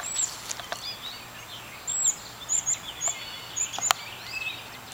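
Small birds chirping with short, very high, thin calls, several in a row. There is a single sharp click about four seconds in.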